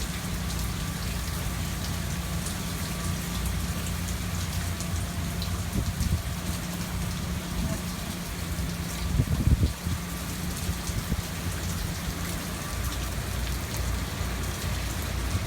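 Hurricane rain falling steadily, with water dripping and splashing off the house, and wind gusts rumbling on the microphone; one stronger gust comes about nine seconds in.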